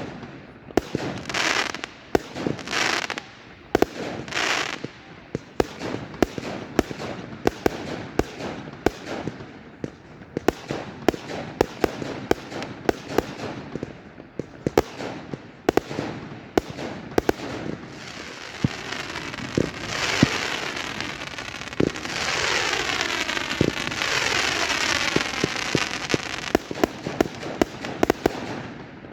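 Fireworks going off: many sharp bangs in quick succession, with three short hissing bursts in the first few seconds and a longer hissing spell lasting about six seconds from some twenty seconds in.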